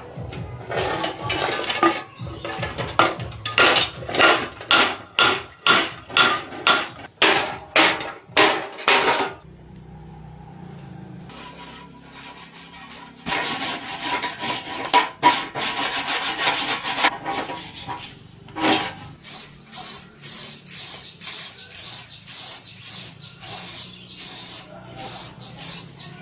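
Repeated hand rubbing or scrubbing strokes on a hard surface, about two a second, with a quieter pause a little before the middle and a quicker, denser run of strokes just after it.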